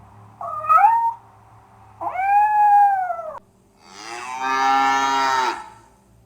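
Domestic cat meowing: a short wavering meow, then a longer arched meow, followed by a longer, lower animal call.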